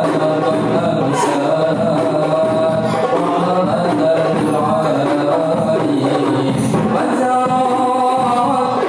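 Rebana frame drums beaten in a steady rhythm under male voices singing together.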